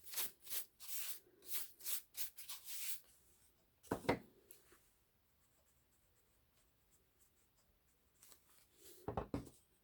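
Eraser rubbing back and forth on paper in short strokes, rubbing out pencil marks, with a knock about four seconds in and a pause before a few more strokes near the end.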